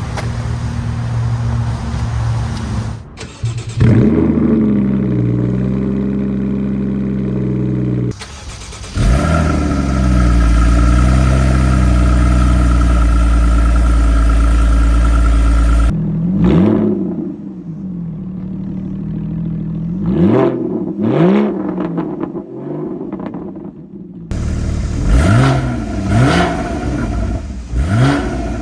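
Porsche Cayman 981 flat-six engine and exhaust idling and being revved in a series of short cut clips. A long, loud held rev near the middle is followed by quicker rev blips that rise and fall back.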